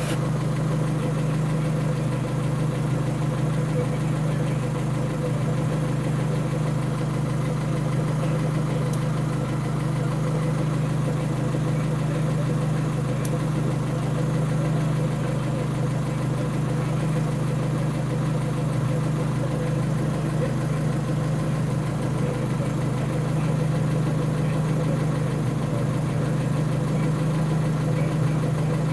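1996 Suzuki X-90's 1.6-litre four-cylinder engine idling steadily. It seems to be running fine despite a stored P0335 crank angle sensor code.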